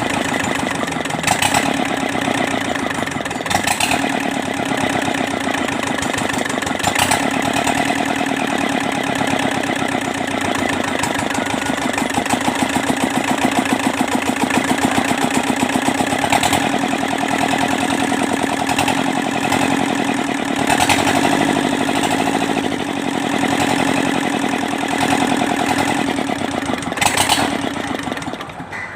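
Kubota Z751 two-cylinder diesel engine running steadily at a fast, even beat, with a few sharp clicks along the way; it dies away near the end.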